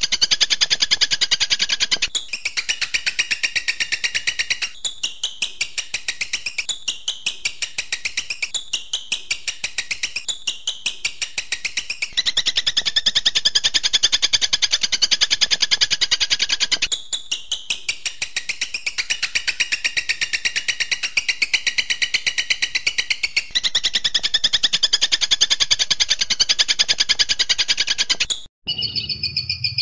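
Recorded songbird song for bird training: a fast, buzzy trill of rapidly repeated high notes, delivered in phrases of about two seconds that shift up and down in pitch. Near the end it breaks off abruptly into a different sound.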